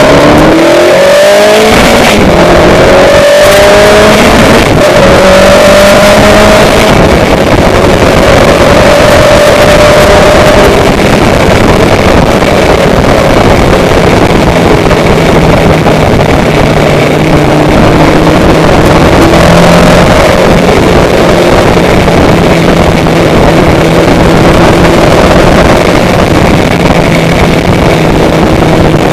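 A motor vehicle engine accelerating up through several gears, its pitch rising in steps over the first few seconds, then holding a steady pitch while cruising, under loud noise from the rush of travel.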